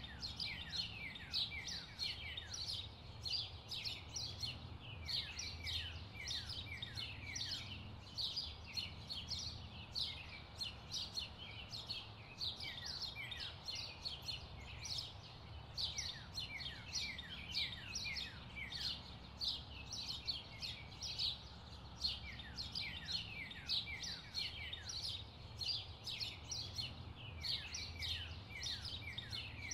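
Birds chirping continuously: a busy stream of short, quick downward-sweeping chirps, several a second, over a low steady rumble.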